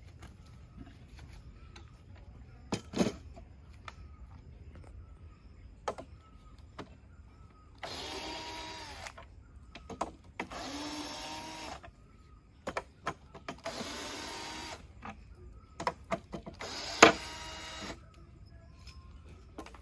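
Power drill-driver running in four short bursts, each winding down at its end, as screws are driven out, with sharp clicks and knocks of parts being handled in between.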